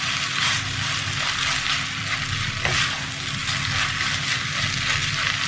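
Chicken fried rice sizzling in oil in a pan while being stirred and tossed, with irregular light scraping strokes of the spatula through the steady sizzle.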